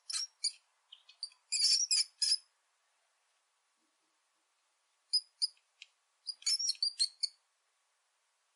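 Mouse squeaking: quick, high, chirpy squeaks in two clusters, one at the start and another about five seconds in, with silence between.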